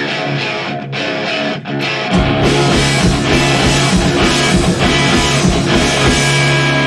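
Live rock band playing: electric guitar first, then about two seconds in the drums and bass come in hard and the full band plays together.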